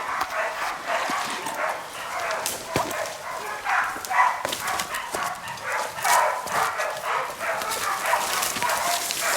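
Bailing dogs barking rapidly and without a break, a bail: the dogs are holding a feral boar at bay.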